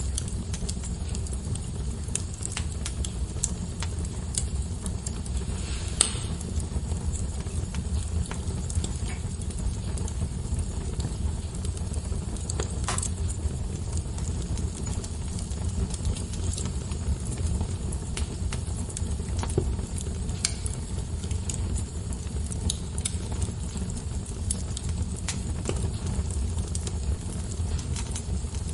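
Wood fire burning in a fireplace: a steady low rumble with frequent irregular crackles and pops, two louder pops about 6 and 13 seconds in.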